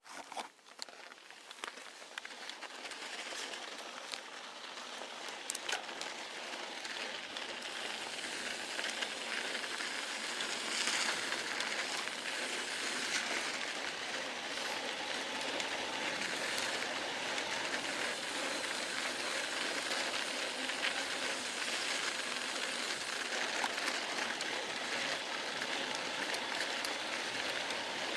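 Steady hiss of rain falling, with scattered drop ticks in the first few seconds and growing louder over the first several seconds before holding steady.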